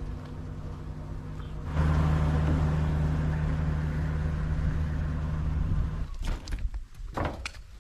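A motor vehicle engine running at a steady pitch, growing louder about two seconds in and stopping abruptly about six seconds in. A few sharp clicks or knocks follow near the end.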